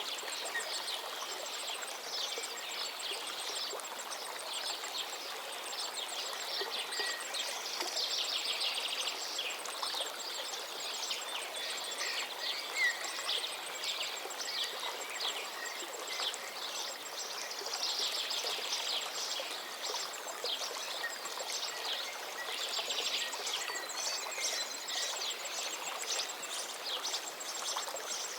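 A forest river flowing steadily, with several songbirds singing over it in quick, overlapping phrases and trills.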